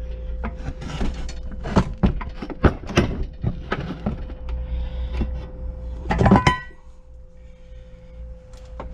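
Knocks and clunks of a 12 hp Briggs & Stratton engine being handled and turned over on the floor for oil pan removal. About six seconds in there is a loud metallic clang with a short ring, and after it the knocks are quieter.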